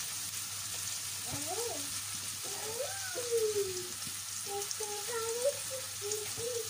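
Beef and tomato sizzling steadily in a stainless steel pan, stirred now and then with a wooden spatula.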